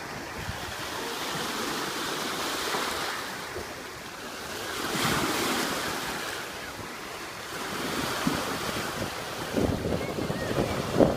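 Sea waves washing onto the shore, swelling and fading twice. Wind buffets the microphone in gusts near the end.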